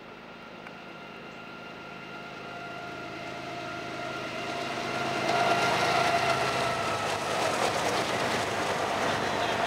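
BNSF freight train of three GE diesel-electric locomotives hauling double-stack intermodal cars, approaching and passing. Its rumble grows louder over the first five seconds or so, with a steady whine over it, as the locomotives go by; then the stack cars roll past at an even level.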